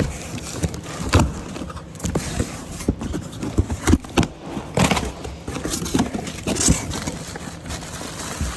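Packaged parts being handled and unpacked: plastic and cardboard packing rustling and crackling, with irregular knocks and clicks as items are moved about.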